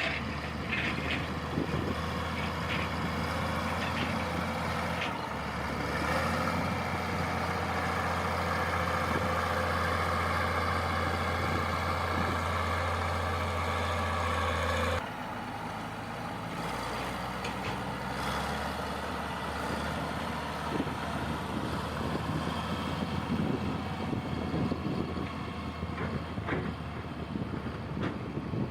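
Heavy construction machine engine running steadily. Partway through, the sound drops abruptly to a quieter running engine.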